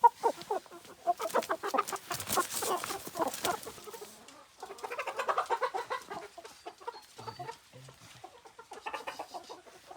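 A flock of hens clucking and cackling, many short rapid calls in bursts, busiest in the first few seconds; newly released chickens that are hungry.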